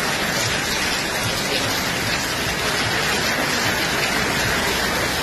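Very heavy rain pouring steadily onto a wet street, an even hiss with no breaks.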